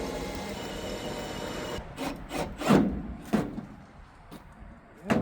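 A steady whirring noise stops about two seconds in. Then come a series of irregular knocks and clunks, the loudest about three seconds in and again near the end: workshop handling of tools and metal parts.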